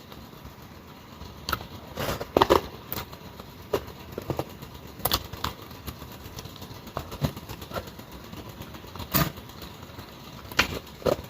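Mukbang eating sounds: scattered clicks and crunches of chewing and of cutlery on a plate, over a low hiss.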